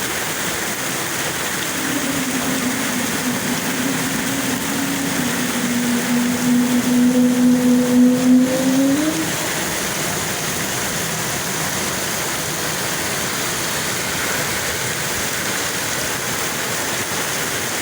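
Steady rain hiss. From about two to nine seconds in, a low engine drone rises in level, then bends up in pitch and fades.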